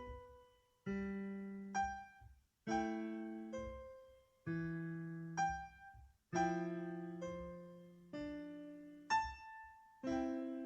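Background music played on a piano-like keyboard: slow chords struck about every two seconds and left to fade, with a single higher note between each pair of chords.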